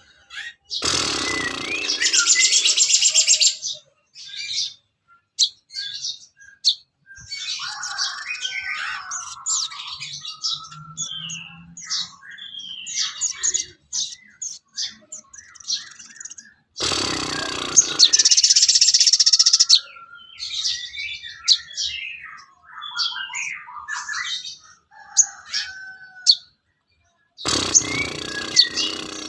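Songbirds singing in a bird-song training recording, with quick chirps and short gliding whistles. Three times a loud harsh buzzing burst rises over the song: near the start, about two thirds of the way in, and near the end.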